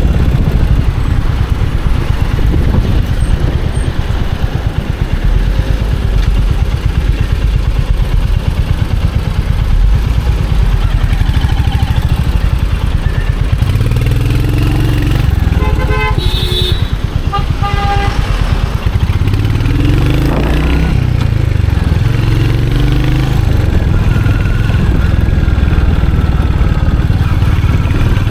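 Royal Enfield Hunter 350's single-cylinder engine and exhaust running under way, the note rising and falling with throttle and gear changes. A vehicle horn honks briefly about halfway through.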